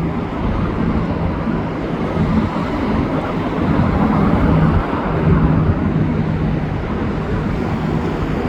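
Steady motorway traffic noise with a constant low engine hum.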